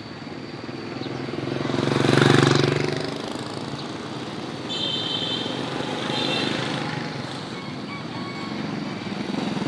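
A motorcycle passing close by, its engine swelling to a peak about two seconds in and then fading away. Two short high-pitched chirps follow in the middle.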